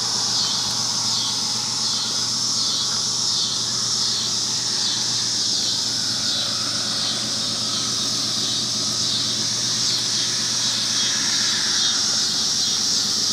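Steady high-pitched insect chorus, pulsing slightly, with a faint low steady hum underneath.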